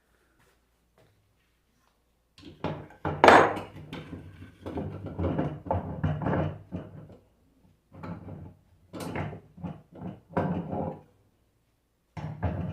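A run of knocks and clunks, starting a couple of seconds in and coming in clusters, as a rebuilt Nissan alternator is handled and mounted on a test bench.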